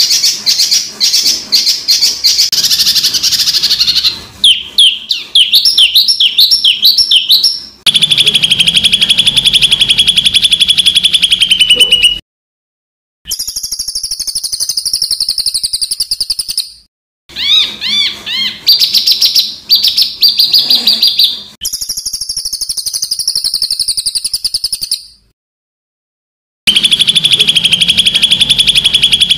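Songbird song played as a masteran tutor recording for cage birds: harsh, fast 'tembakan' phrases of rapidly repeated notes and quick sweeping whistles. It comes as separate clips that start and stop abruptly, with two brief gaps of silence.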